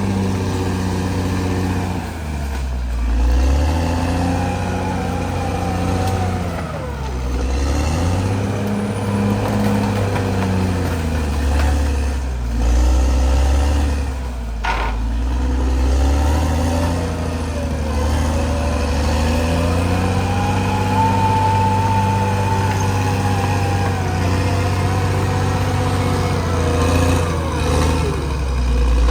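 Caterpillar D6R XL bulldozer's diesel engine working hard, its pitch sagging under load and picking back up several times over. A single sharp click comes about halfway through.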